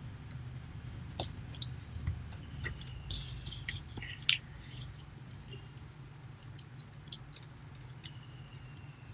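Sheet of paper being handled and folded by hand: scattered small crackles and taps as it is creased, with a short rustle about three seconds in and a sharper click just after. A low steady hum runs underneath.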